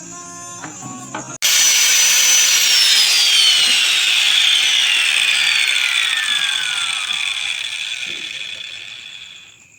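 An electric woodworking power tool starts loud about a second in with a high whine. Its pitch then falls steadily as the motor winds down after being switched off, fading out near the end.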